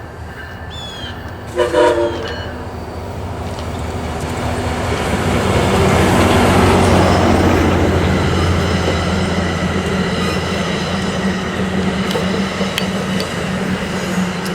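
A MARC test train's locomotive gives a short horn blast about two seconds in. Then the train passes: the rumble of the train builds to its loudest midway and eases off, over the steady drone of the locomotive's engine.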